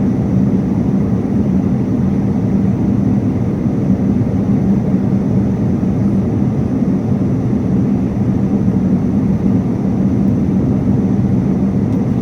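Airliner cabin noise in flight: a steady, even rush of engine and airflow noise, strongest in the low range, with a constant low hum underneath.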